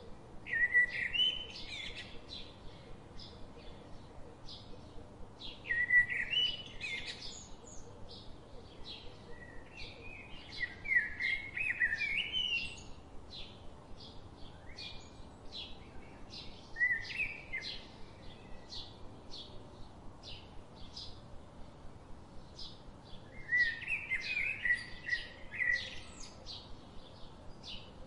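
Birds singing: short high chirps repeat a few times a second throughout, and a louder warbling phrase comes every few seconds.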